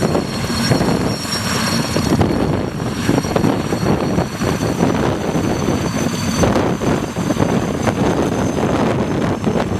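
Erickson S-64 Air-Crane heavy-lift helicopter taking off: loud, rapid rotor beat over steady high turbine whine.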